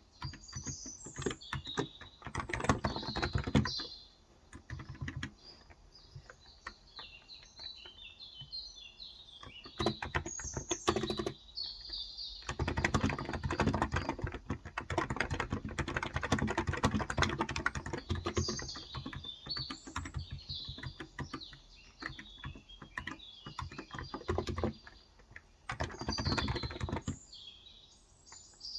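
Typing on a Cox Endeavour electro-capacitive 35 g tenkeyless keyboard, coming in bursts of rapid key presses with the longest run about 12 to 19 seconds in. Small birds chirp and twitter high above the key sounds throughout.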